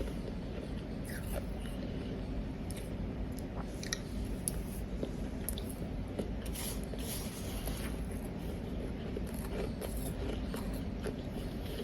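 Close-miked biting and chewing of powdery ice: irregular soft crunches and crackles of the ice breaking between the teeth.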